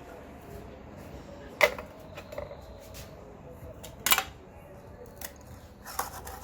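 Sharp metallic clicks and knocks of tuna cans and their lids being handled and emptied, two of them louder, about one and a half and four seconds in.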